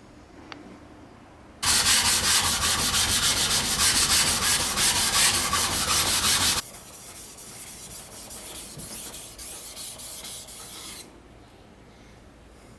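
Honyaki yanagiba sashimi knife blade being stroked back and forth on a whetstone, a rapid rhythmic scraping. It starts about two seconds in, is loud for about five seconds, then carries on more quietly until about eleven seconds in.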